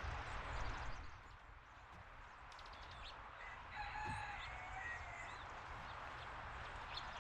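A bird's long call, held for about a second and a half starting about three and a half seconds in, over a steady low outdoor rumble, with a few faint short chirps from small birds.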